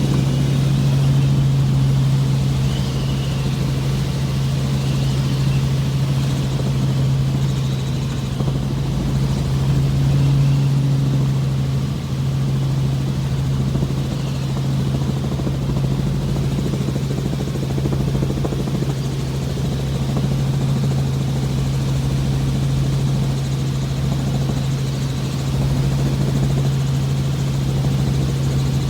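Helicopter running steadily, heard from inside the cabin: a constant loud drone with a deep, unchanging hum.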